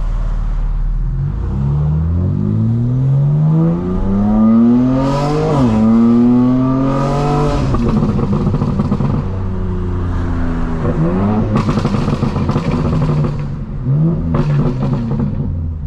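Straight-piped BMW M4 Competition's twin-turbo inline-six accelerating, its pitch climbing through a gear, dropping at an upshift about five and a half seconds in, then climbing again. Off the throttle the exhaust crackles and pops, with two shorter bursts of throttle and more crackling in the second half.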